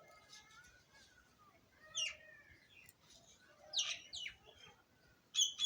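Small birds chirping: several short, sharp calls that slide downward in pitch, heard singly and in quick pairs, with softer twittering between them. The loudest pair comes near the end.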